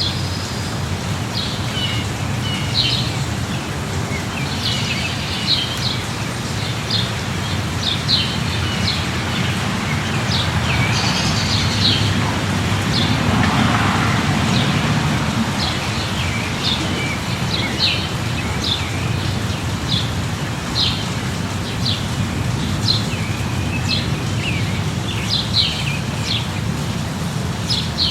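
Steady light rain with birds chirping in short, repeated calls. A broader swell of noise rises and fades about halfway through.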